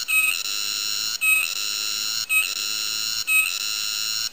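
Cicada singing a very loud, very electronic-sounding buzz: a steady high tone that breaks off briefly about once a second, with a small click at each break.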